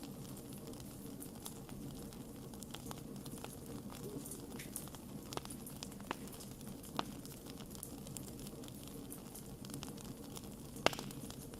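Wood campfire burning with a steady low rumble, crackling with scattered small pops throughout and one sharper pop near the end.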